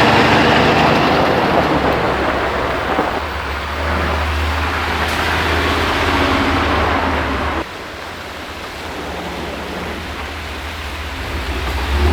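A vehicle engine running with a steady low rumble under a rushing noise. The level drops abruptly about seven and a half seconds in.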